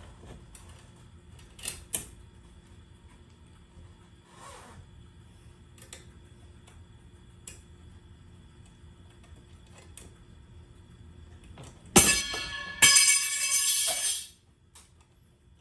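A few sharp clicks, then a loud ringing clatter in two bursts lasting about two seconds in all, like hard parts being handled or knocked together.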